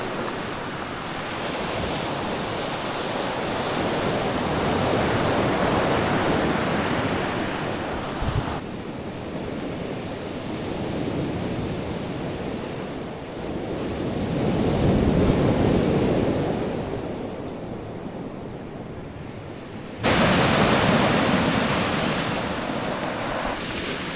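Ocean surf washing onto the shore, swelling and falling back slowly, with wind on the microphone. The sound changes abruptly twice, about a third of the way in and again near the end.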